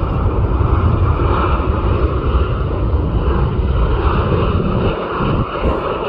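Boeing 737 jet airliner's engines making a loud, steady rumble as it passes close by; the low rumble eases about five seconds in.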